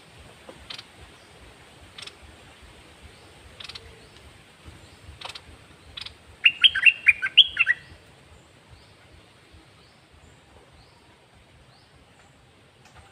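Caged red-whiskered bulbul calling: a few short single chirps, then about six and a half seconds in a loud, quick run of rapid song notes lasting just over a second, followed by faint scattered chirps.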